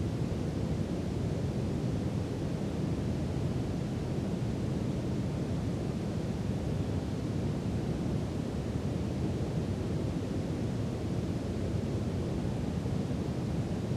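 Steady brown noise, a deep, even rushing hiss weighted toward the low end, without change or events.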